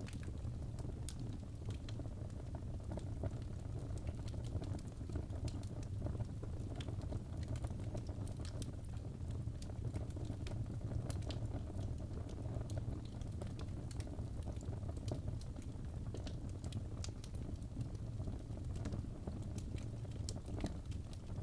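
Fire burning in a fireplace: frequent small crackles and pops, scattered unevenly over a steady low rumble.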